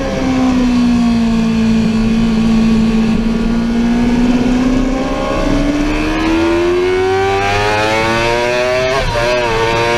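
Sportbike engine heard from on board at speed. The engine note holds and eases slightly for the first half, then rises steadily as the bike accelerates, with a brief dip and recovery near the end.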